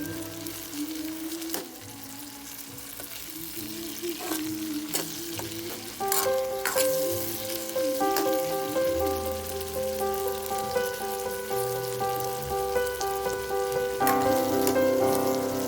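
Food frying and sizzling in a pan, with a few sharp knocks of a cooking utensil.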